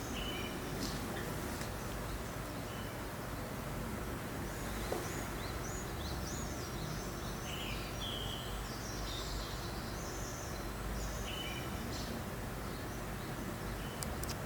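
Steady breeze with birds chirping now and then in short, high calls.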